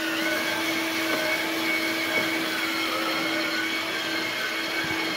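Small electric motors and gearing of RC construction models whining steadily, the pitch sagging slightly now and then under load.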